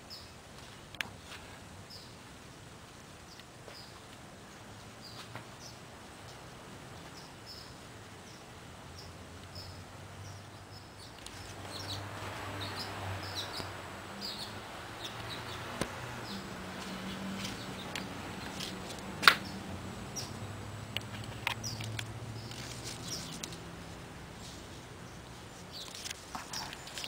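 A small bird chirping over and over, a short high chirp about once a second, over soft outdoor background noise that swells for a while in the middle. A single sharp click about two-thirds of the way through is the loudest sound.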